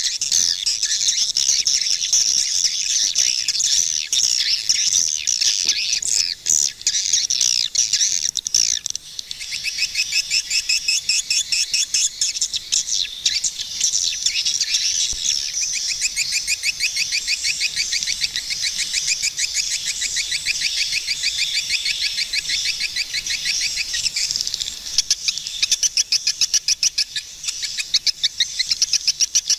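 Swiftlets calling: dense, overlapping high-pitched chirps and chattering, which from about nine seconds in turn into fast trains of rapid ticking clicks.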